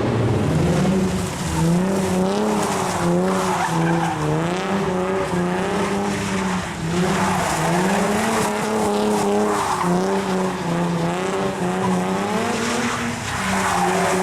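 A car doing donuts or a burnout with its tyres squealing. The engine is held at high revs, its pitch rising and falling again and again as the throttle is worked.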